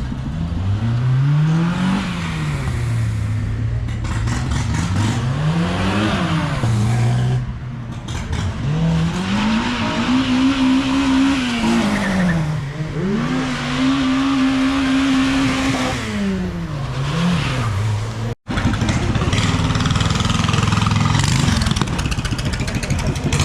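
A car engine being revved repeatedly while standing: the note climbs, drops back toward idle, and climbs again about five times, twice held high for a second or two.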